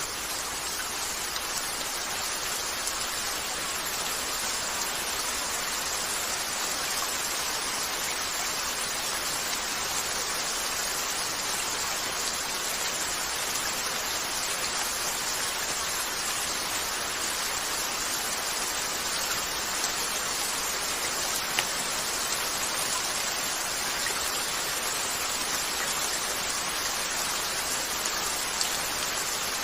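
Steady gentle rain falling on a window, with a couple of faint sharp crackles from a fireplace about two-thirds of the way in.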